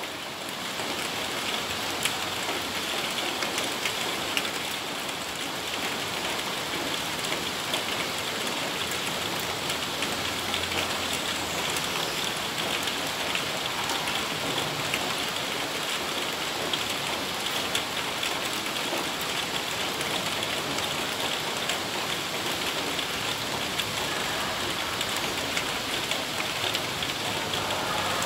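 Heavy tropical rain falling steadily onto a corrugated metal roof: a dense, even hiss of countless drops with no let-up.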